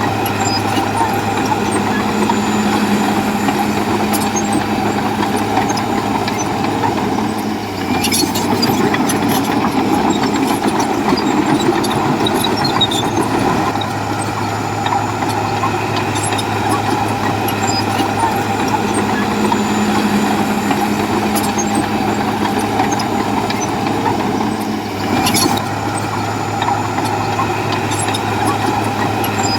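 Heavy diesel engine of earthmoving machinery running steadily under work, its note shifting a few times as the load changes.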